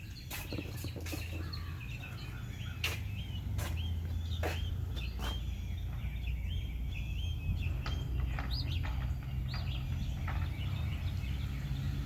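Several wild songbirds chirping and calling, a dense chorus of short, sharp notes, many of them quick falling whistles, over a steady low rumble.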